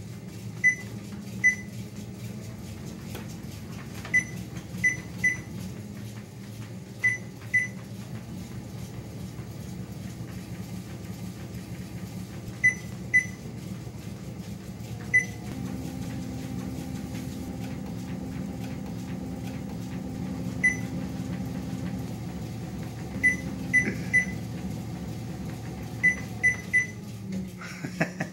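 Treadmill motor and belt running with a steady hum. Over it the console gives short high beeps, singly or in quick runs of two or three, which is typical of its speed buttons being pressed.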